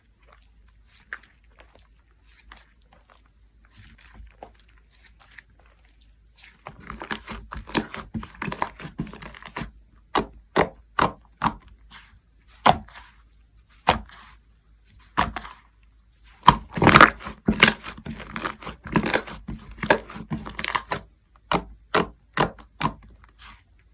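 Hands squishing and stretching slime: a few faint clicks at first, then from about seven seconds in a dense run of sticky crackles and sharp pops, ending with several separate pops.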